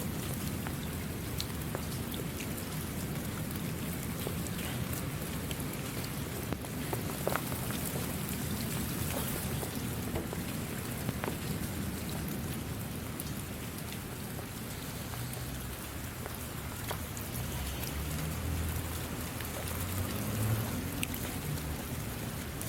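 Steady rain falling, a continuous hiss with scattered individual drop ticks and a low rumble underneath that swells a little near the end.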